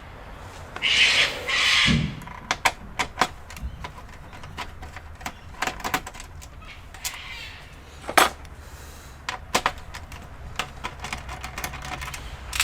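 Scattered clicks and knocks of plastic and metal computer parts being handled and pried apart during disassembly, with a brief scraping sound about a second in and a sharper click about eight seconds in.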